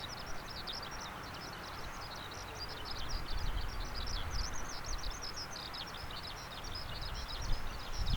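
A small bird singing: a fast, continuous run of short, high chirps, over a steady outdoor background and a low rumble.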